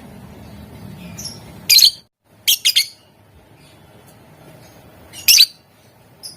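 Lovebird giving short, shrill chirps in bursts: one near two seconds in, three quick ones just after, and another a little past five seconds, over a low background hum. The sound cuts out completely for a moment about two seconds in.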